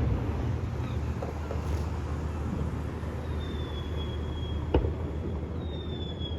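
Fireworks: a thin high whistle, falling slightly in pitch, is followed almost five seconds in by one sharp bang, and a second whistle starts near the end. Under it all runs a steady low rumble.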